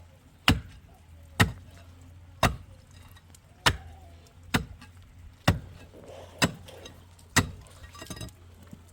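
Repeated heavy blows of a hand tool striking a hard material, eight sharp strikes about one a second, then a short patter of small clatters near the end.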